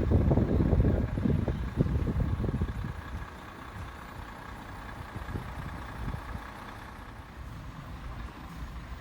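Heavy truck engine running, loud and uneven for the first few seconds, then settling to a quieter, steady rumble.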